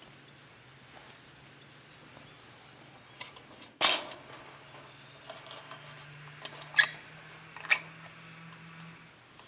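A few handling knocks and clicks: one loud knock about four seconds in, then two sharper clicks near the end, over a faint steady low hum.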